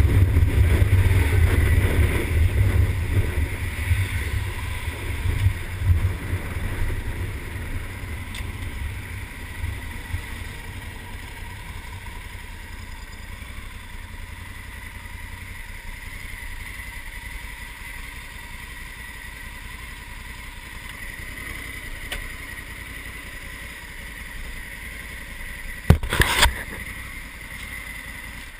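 Honda Africa Twin's parallel-twin engine running with wind on the microphone as the motorcycle slows and comes to a stop. The engine then idles steadily, with two sharp knocks near the end.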